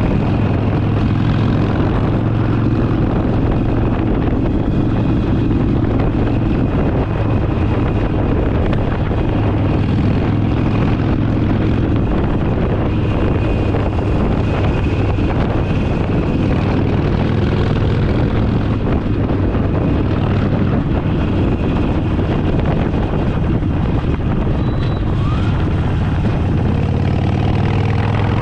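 Harley-Davidson Forty Eight's air-cooled V-twin running steadily at riding speed, a low engine drone under road noise.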